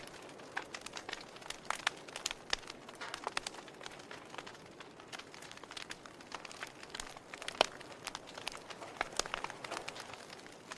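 Wood fire burning in a fireplace, crackling with irregular sharp pops over a soft steady hiss. One louder pop comes about seven and a half seconds in.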